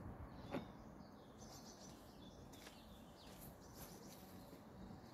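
Near silence with faint bird chirps in the background and a single soft click about half a second in.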